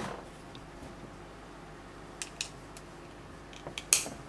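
LEGO plastic bricks clicking and tapping as pieces are handled and pressed into place. There are a few sharp clicks, with the loudest near the end.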